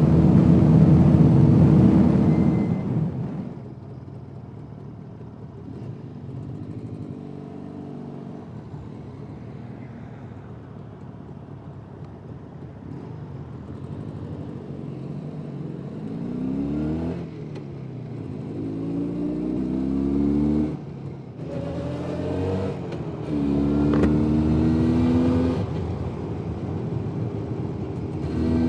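Jawa 350 type 638 two-stroke twin engine heard from the riding motorcycle. It drops to a low, steady running for several seconds, then pulls away, climbing in pitch again and again with brief breaks at each gear change.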